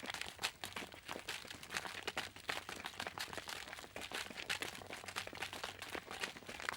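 Footsteps walking on a crunchy surface, heard as a dense, irregular run of short clicks and crackles.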